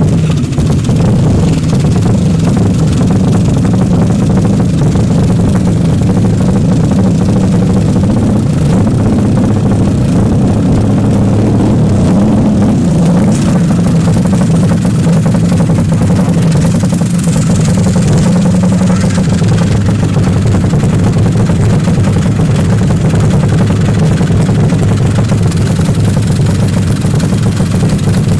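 Motorcycle engine, a four-stroke single from a Yamaha Jupiter bored up to 150 cc, idling steadily close by.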